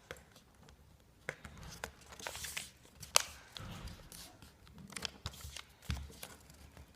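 A paper airplane being folded and creased by hand: paper rustling and crinkling, with scattered sharp crackles as the wing folds are pressed down.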